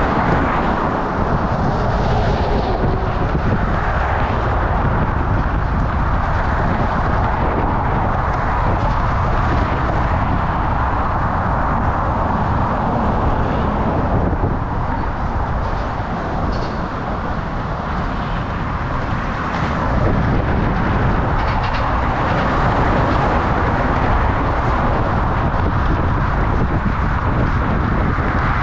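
Steady rushing wind and road noise on the microphone of a moving bicycle, with a heavy low rumble.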